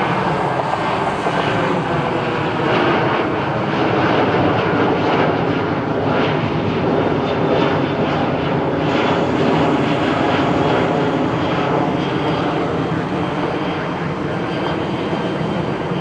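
Jet airliner's engines running at high power, a loud steady rush with faint tones slowly falling in pitch, growing a little quieter over the last few seconds as the aircraft moves away.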